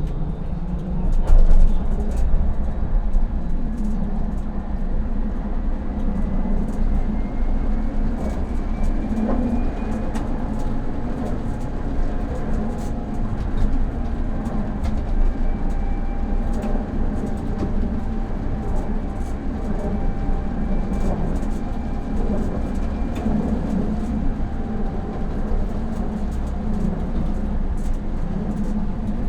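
Electric tram running along the track, heard from the driver's cab: a steady rumble of wheels on rails with scattered clicks, and a faint motor whine that rises slowly in pitch as the tram picks up speed. There is a louder bump just over a second in.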